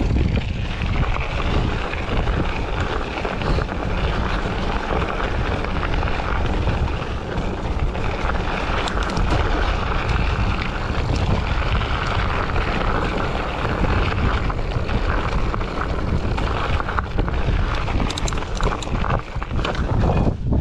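Steady rushing wind noise buffeting the microphone while riding, a loud low rumble.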